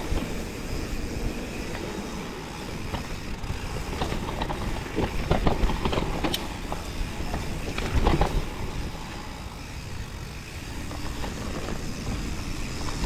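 Mountain bike rolling over a rough, wet trail: a continuous rumble with irregular knocks and rattles, the loudest clatters about four to six seconds in and again about eight seconds in.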